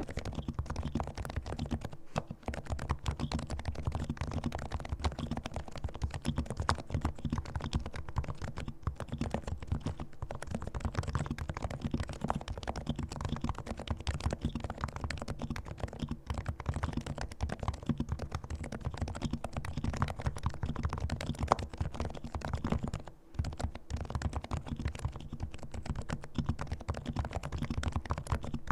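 Fast, continuous typing on a silent-version Realforce R2 keyboard with fully lubricated Topre capacitive switches, giving dense, low, muted key strokes. The typing breaks off briefly about two seconds in and again near the end.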